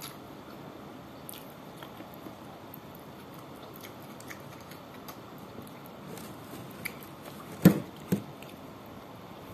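Close-up eating sounds: chewing and small wet mouth and finger clicks over the steady whir of an electric fan. Near the end come two louder thumps about half a second apart.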